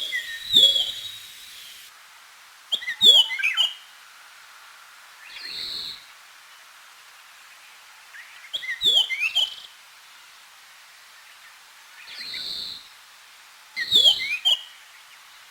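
A wild songbird singing short, quick phrases of falling notes about every five to six seconds, with a single high note between phrases.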